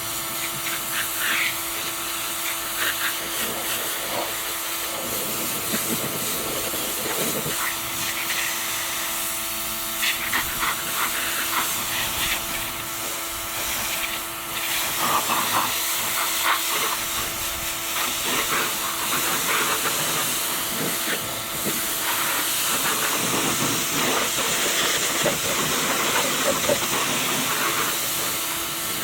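A pressure washer running, its water jet hissing steadily over a steady motor and pump hum, the spray sound shifting as the jet moves across surfaces.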